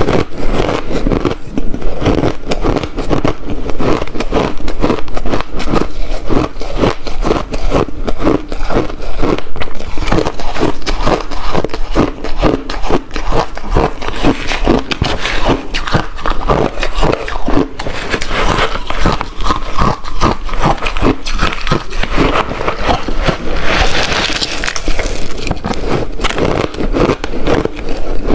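Close-miked crunching of ice being bitten and chewed, a dense run of sharp cracks and crunches several times a second with no real break.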